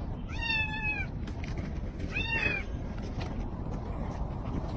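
A cat meowing twice: one call near the start and another about two seconds in, each about half a second long, over a steady low background hiss.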